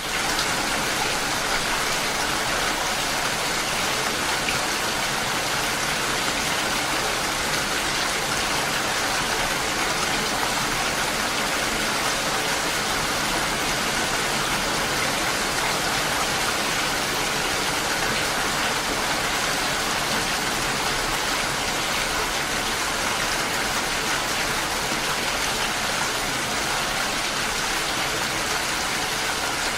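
Steady rain falling, an even hiss of countless drops with no single sound standing out; it fades in quickly from silence at the very start.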